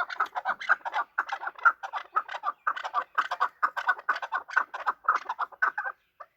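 Chukar partridge calling: a rapid series of short notes, several a second, that thins out and stops about six seconds in.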